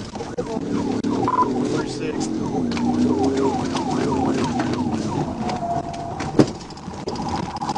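Police car siren on the yelp setting: rapid falling whoops, about three a second. A sharp knock sounds about six seconds in.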